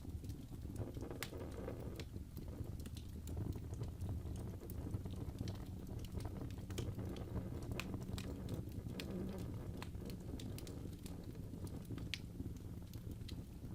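Fireplace fire crackling: irregular sharp pops and snaps over a low steady rumble.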